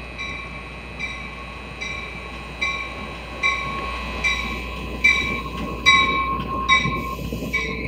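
Commuter train pulling into a station platform, its bell ringing steadily about once every 0.8 seconds over the rumble of the passing cars. A thin steady squeal runs underneath.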